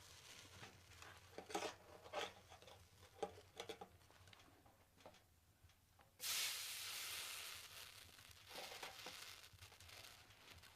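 Faint rustling and handling clicks, then a sudden hiss about six seconds in that fades away over a couple of seconds, followed by more rustling.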